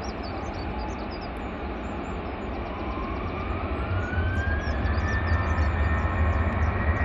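Airbus A350-900 airliner's Rolls-Royce Trent XWB jet engines on approach to land: a rushing jet noise with a deep rumble, and an engine whine that rises in pitch about three seconds in and then holds, growing louder as the aircraft nears.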